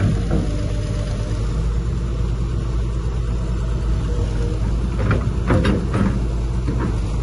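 Heavy diesel engine of earthmoving machinery running steadily at a low pitch, with a few short metallic clanks a little past the middle.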